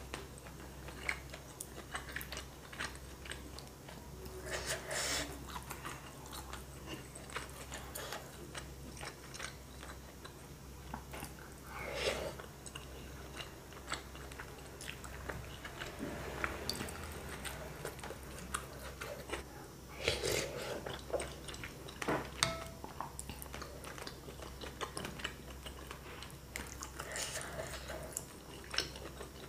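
Close-miked mouth sounds of eating chicken noodles: steady wet chewing with small clicks, and a few louder bursts about every seven or eight seconds.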